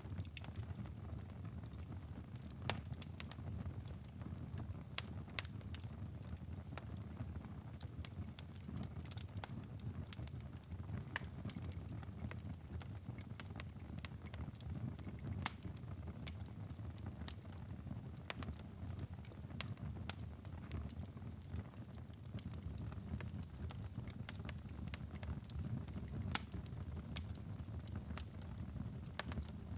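Wood fire burning in a fireplace: a steady low rumble of flames with constant irregular crackling and occasional sharper pops.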